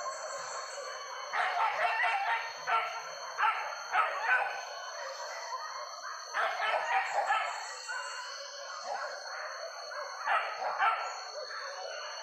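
Hunting dogs barking and baying in repeated bursts, over a steady high-pitched drone.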